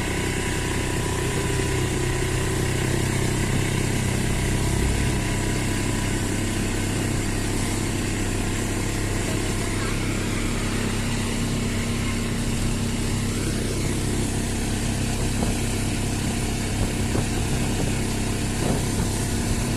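Steady engine and road noise of a moving road vehicle, an even drone that does not change.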